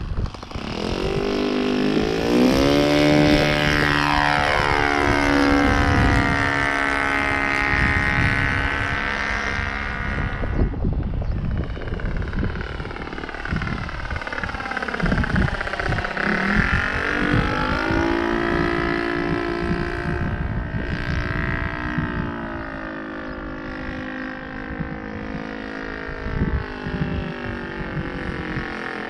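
Saito FG-21 four-stroke gas engine on a radio-controlled Carbon Cub, throttled up about a second in and running at high power, its pitch rising and falling as the plane flies. Wind rumbles on the microphone throughout.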